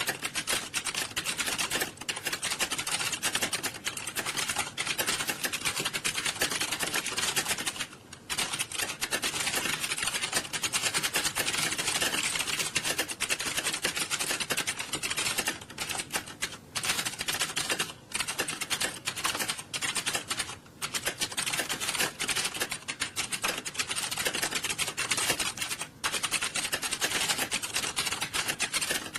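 Many computer keyboards being typed on fast at once: a dense, continuous clatter of keystrokes, easing in brief lulls a few times.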